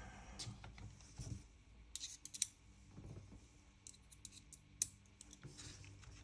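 Faint, scattered small clicks and taps of a screwdriver and metal gun parts being handled while screws are driven back into the airsoft gun's receiver. The sharpest click comes a little before the end.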